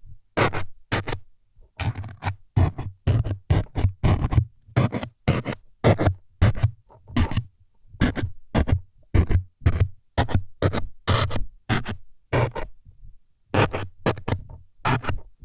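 ASMR stabbing effect: short scraping jabs against the microphone, meant as needles being stuck in, repeating about two times a second with brief silences between.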